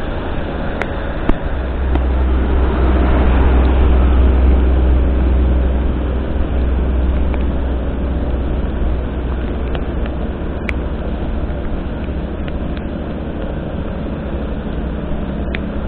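Steady vehicle driving noise, a low engine and road rumble with hiss, swelling louder for a few seconds about two seconds in.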